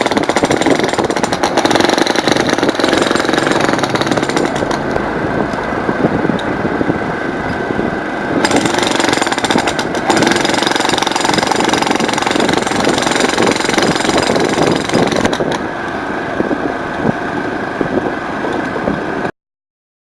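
Jackhammer chipping into concrete: a loud, rapid, continuous hammering, easing a little in places, that cuts off suddenly near the end.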